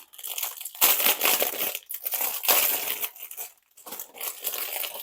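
Packaging crinkling and rustling in the hands as a diamond-painting kit's pack of drills and tools is opened, in irregular bursts that are loudest in the first few seconds and fainter near the end.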